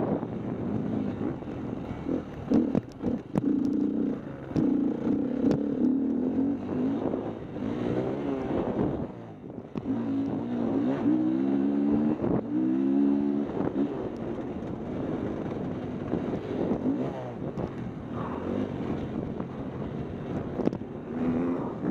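Dirt bike engine revving up and down repeatedly over rough ground, its pitch rising and falling several times, with wind rumbling on the microphone.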